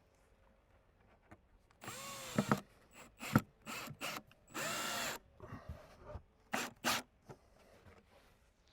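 Power drill driving screws into wooden cover boards in several short runs, the motor's pitch rising and falling with each run.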